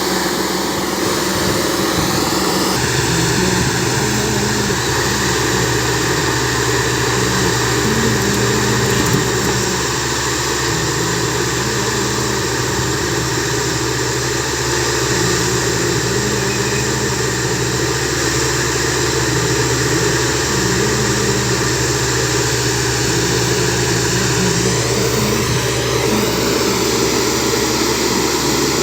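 T28 points-and-crossing tamping machine running steadily, its diesel engine and hydraulics humming loudly, with a tone that steps up and down every couple of seconds as it works.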